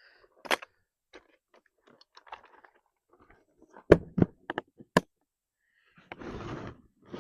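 Sharp knocks and clicks of outboard motor parts being handled and fitted together: one about half a second in and a quick run of five about four to five seconds in, followed by a short rushing, scraping noise near the end.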